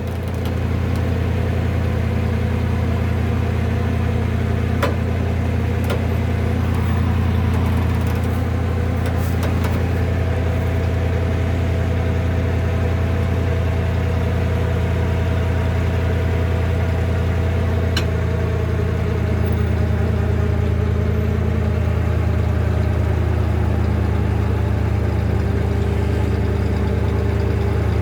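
Tow truck's engine idling steadily, with a few sharp clicks.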